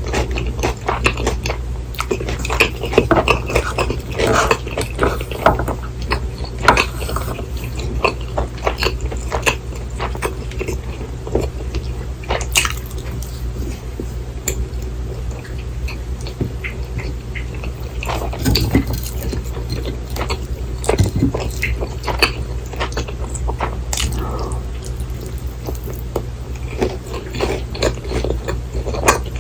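Close-miked eating sounds: chewing, with many irregular clicks and clinks of cutlery and dishes over a steady low hum.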